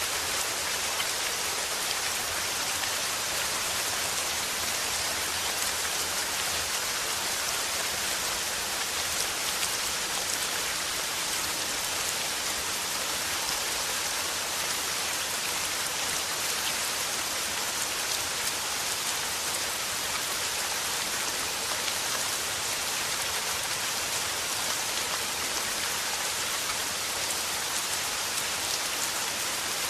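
Steady rain falling, an even hiss of many drops without pause or change.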